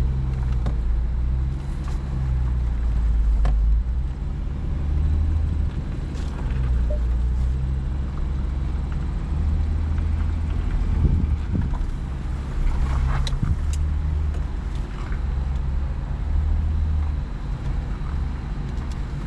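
Off-road truck's engine running low and slow under load, rising and easing as the truck crawls over rock in low range, with a few faint knocks.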